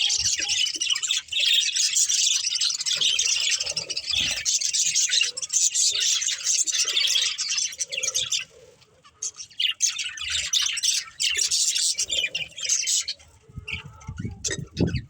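Budgerigars chirping and chattering in a busy, continuous warble, with a brief lull a little past halfway before the chatter resumes.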